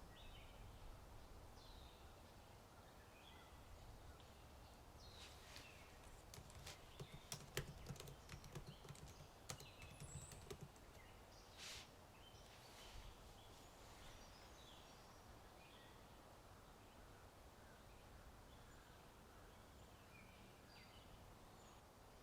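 Faint computer-keyboard typing: a short run of key clicks from about five to eleven seconds in. Underneath is a soft outdoor ambience of small birds chirping and a low wind rumble.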